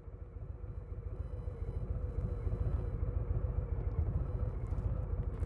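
2022 Harley-Davidson Low Rider S's Milwaukee-Eight 117 V-twin running steadily at low revs, a fast low pulsing that grows louder over the first couple of seconds.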